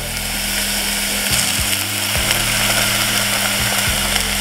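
Diced onion and garlic sizzling steadily in olive oil in a stainless steel saucepan, over a steady low hum. A few soft knocks come as thick ketchup is scraped into the pan from a cup.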